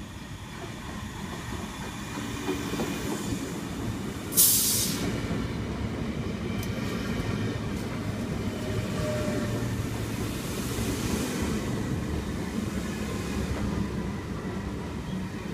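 Sydney Trains S set double-deck electric train arriving at the platform: a steady low rumble, with a short sharp burst of air hiss about four seconds in.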